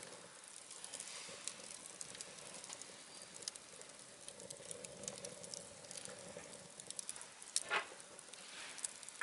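Scrap timber burning in a wood stove, crackling faintly with irregular small pops and snaps over a soft hiss; one louder pop comes near the end.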